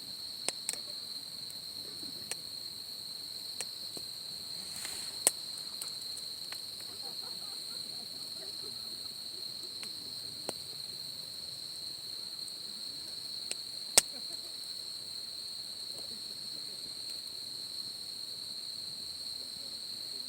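Wood fire crackling with scattered sharp pops, a loud one about five seconds in and the loudest about fourteen seconds in. Under them runs a steady high-pitched insect trill.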